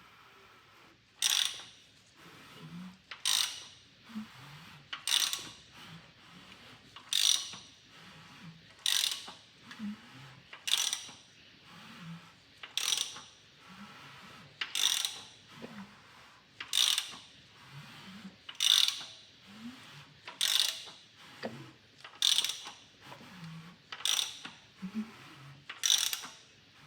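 A socket ratchet worked in steady strokes, a short burst of pawl clicks about every two seconds, turning the LS3 crankshaft over by hand to bring the next lifter to the top for rocker arm torquing.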